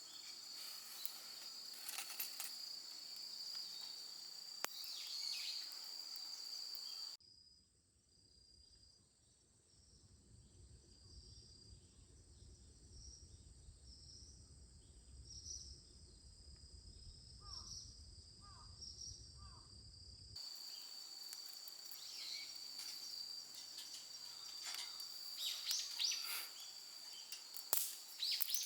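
Insects trilling steadily in high-pitched bands, with scattered small snaps and clicks. In a quieter middle stretch the trill drops back under a low rumble, and a few short bird chirps come in, before the louder insect trill and clicks return.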